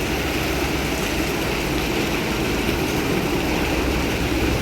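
Heavy truck engine running steadily with a continuous low drone.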